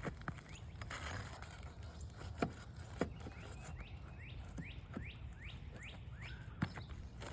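A bird chirping a quick run of about eight short notes in the middle, over a few sharp knocks of a flat bar prying nails out of asphalt shingles.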